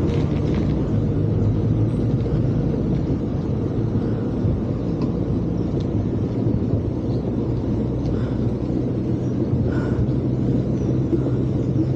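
Steady low rumble of wind and ride noise on a microphone carried along on a moving bicycle.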